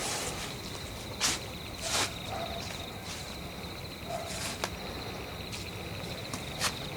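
Crickets trilling steadily in a night forest, with a few short sharp snaps or crunches scattered through.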